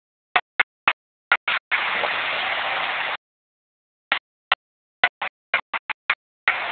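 Heavy rain as a steady hiss on a phone microphone. The audio cuts out to dead silence over and over: first a run of brief bursts, then a longer stretch of rain, another silent gap, more brief bursts, and the rain holds steady again near the end.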